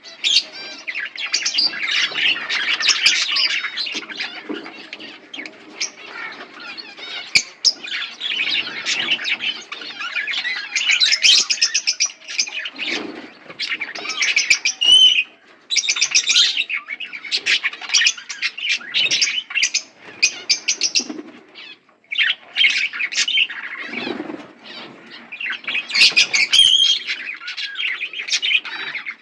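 A flock of budgerigars chattering together: many overlapping chirps, warbles and squawks, with brief lulls now and then.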